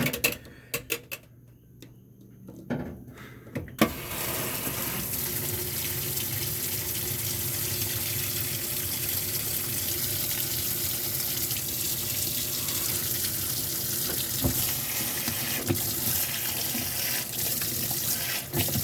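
Kenmore washing machine: a few sharp clicks, then about four seconds in water starts rushing in and runs steadily as the tub fills.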